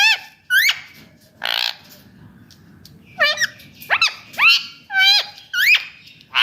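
Indian ringneck parakeet calling: a string of about eight short, loud squawks, roughly one every half second, some sliding up and some down in pitch, with a couple of harsher screeches among them.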